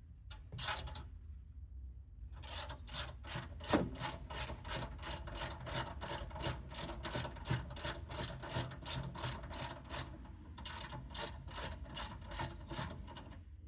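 Hand socket ratchet clicking in quick, even strokes, about three a second, as bolts are done up; two runs of strokes with a short break about ten seconds in.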